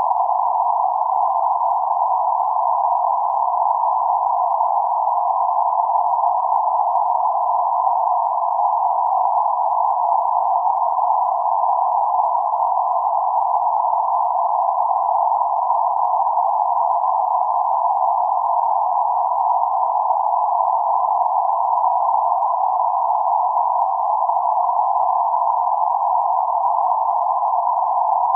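Band-limited noise centred around 848 Hz: a steady, even hiss confined to a narrow band of middle pitches, with no low rumble or high sizzle, unchanging in level.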